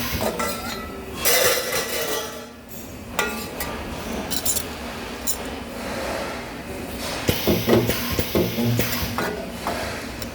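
Metal parts clinking and clanking against each other at irregular intervals, with several short hissing bursts, sounds of spot-welding sheet-metal work.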